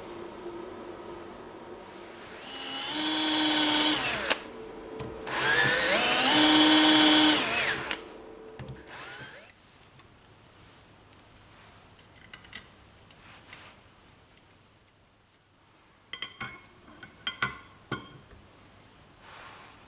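A power tool's motor run twice for a couple of seconds each, speeding up, holding, then winding down. This is followed by scattered light clicks and taps.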